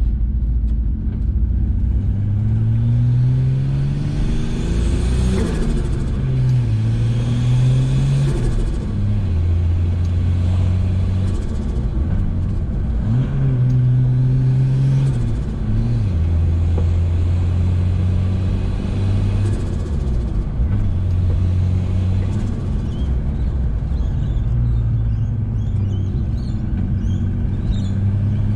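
Nissan RB30ET turbocharged 3.0-litre straight-six pulling uphill on low boost, its revs climbing and then falling off each time the throttle is released, several times over. Each throttle lift brings turbo flutter: compressor surge as the throttle snaps shut.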